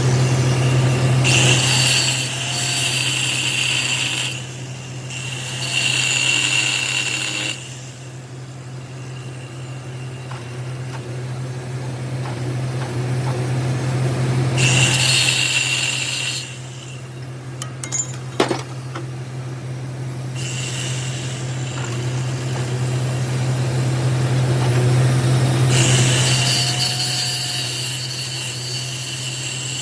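Metal lathe running with a steady low hum. Several times the cutting tool bites into the metal workpiece, adding a loud high-pitched ringing screech for a few seconds each time. A single sharp click comes midway.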